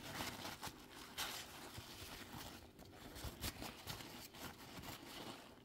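Faint, irregular rubbing and scratching of a cloth scrubbing cleaner over the body of a vintage Kenmore sewing machine. It dies down near the end.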